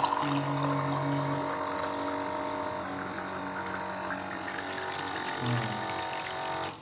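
Water running from a tap or dispenser into a cup, steady, stopping abruptly near the end.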